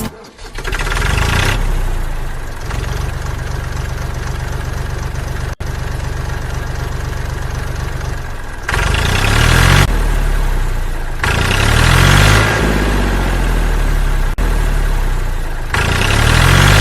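An engine idling with a steady pulse, revved up briefly three times, about two thirds of the way in, a little later, and near the end.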